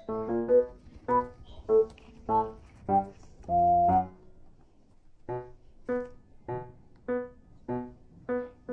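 Background piano music: a slow melody of single notes, with one longer held note about four seconds in, then evenly spaced notes a little under two per second.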